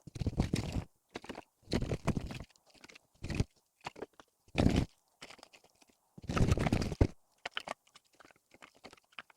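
Split firewood logs knocking and clattering against each other as they are stacked one by one, in about half a dozen irregular bursts with short pauses between them.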